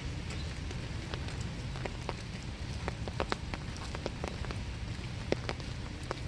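Steady winter rain with scattered individual drops striking close by, a few of them louder taps.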